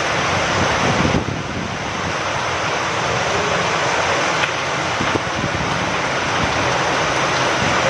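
Steady rain falling with wind, a dense even hiss with a brief lull about a second in.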